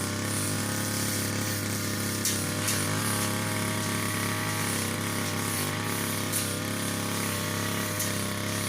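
Motor-driven brush cutter (grass trimmer) running steadily at working speed, its pitch wavering slightly, with a few short sharp ticks.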